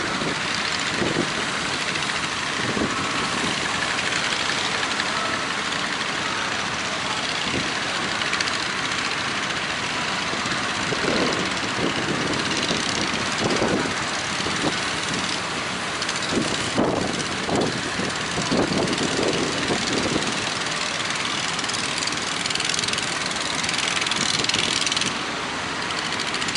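Engines of fishing boats running steadily, under a constant hiss, with a few brief louder bumps in the middle.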